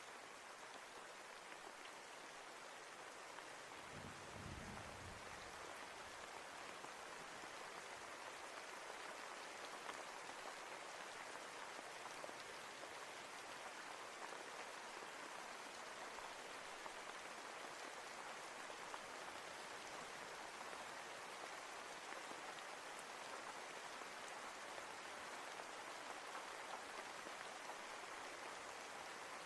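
Steady rain falling, an even hiss of many drops. A brief low rumble about four seconds in.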